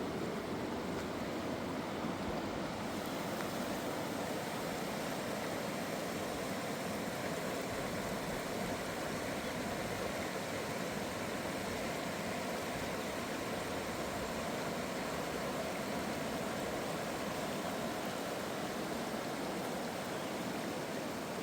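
Flowing river water rushing steadily, an even noise with no breaks.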